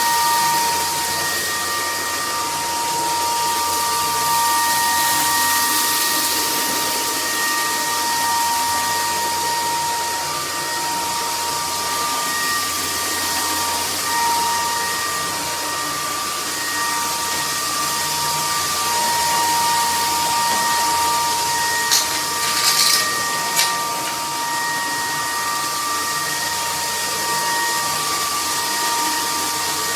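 Cordless stick vacuum cleaner running steadily: a high motor whine over rushing air. A few short clicking rattles come about three quarters of the way through.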